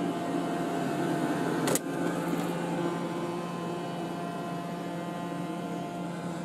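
iRobot Roomba e5 robot vacuum running on carpet: a steady hum of its motors and brushes, with one sharp click about two seconds in.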